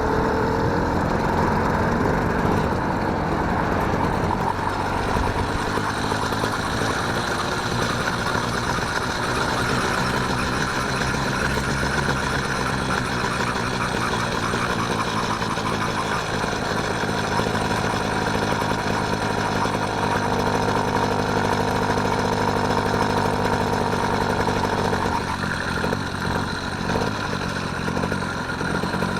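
The small engine of a motorised bicycle running steadily under way, with an even, constant pitch. Near the end it turns rougher and less even.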